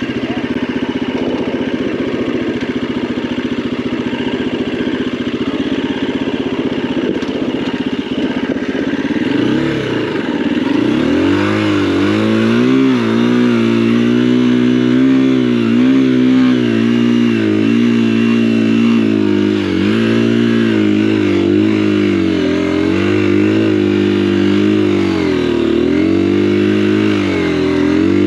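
Single-cylinder Husqvarna dirt bike engine on an off-road trail, running steadily at first, then about ten seconds in it picks up and its pitch rises and falls again and again as the throttle is worked on a steep hill climb.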